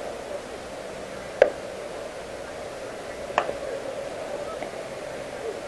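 Two sharp smacks of a baseball, about two seconds apart, the first the louder, over a steady background hum.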